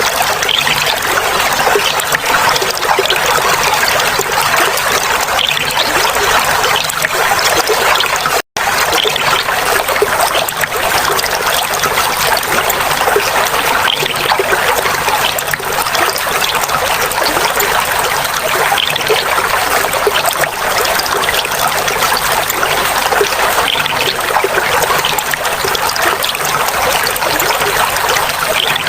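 Clear running water trickling and babbling steadily, like a small stream over stones. The sound cuts out for an instant about eight seconds in.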